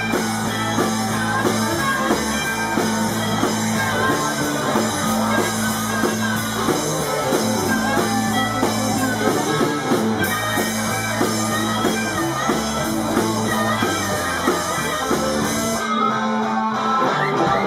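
Live band playing an instrumental passage with electric guitar, bass and drums, with no singing. Near the end the cymbals drop out.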